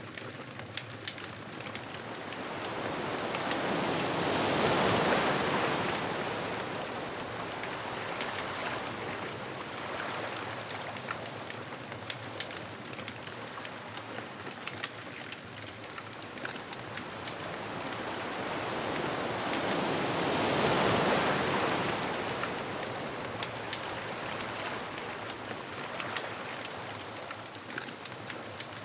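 Ocean waves washing onto a beach: two slow surges that build and fade, peaking about five seconds in and again about twenty seconds in, over a steady wash of surf. Small crackles and pops from a beach bonfire are scattered throughout.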